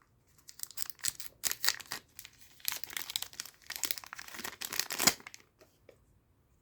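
Foil booster pack of trading cards being torn open and crinkled by hand, a run of sharp crackles that ends on one loud crinkle about five seconds in.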